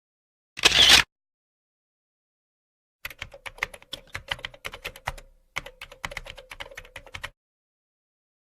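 Computer keyboard typing: a fast, irregular run of key clicks lasting about four seconds, with a brief pause midway. It is preceded about half a second in by a short noisy burst.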